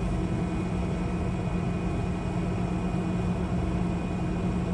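Power tool running steadily at a constant pitch as it cuts across the exhaust pipe.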